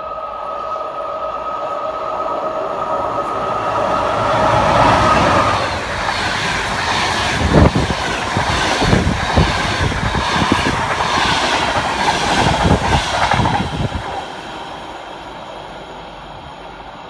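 Express passenger train passing at speed: a steady high two-note tone swells and cuts off about five seconds in, then the wheels clatter in a regular rhythm over rail joints as the carriages rush past, fading away after about fourteen seconds.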